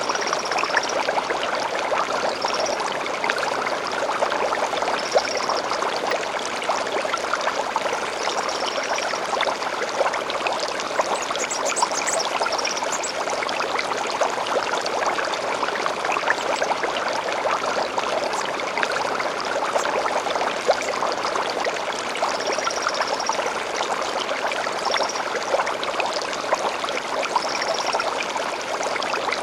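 Small stream flowing steadily, water trickling and splashing. A bird gives a short high call every few seconds, with a quick run of higher notes about twelve seconds in.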